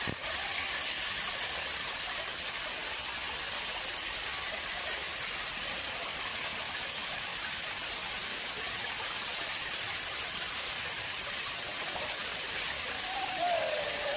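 Water flowing and splashing steadily into an artificial pond, an even rushing sound. A faint falling tone comes in near the end.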